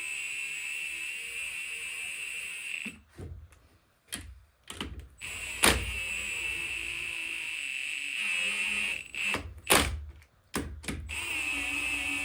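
A cordless power driver spinning bolts into the transmission case in three runs of a few seconds each, a steady high whine that stops with a sharp click or knock between runs.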